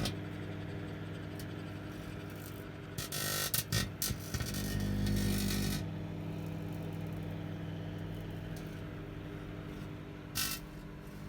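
Microwave oven running with a steady electrical hum, broken by short bursts of crackling from arcing inside it, around three to four seconds in and again near the end.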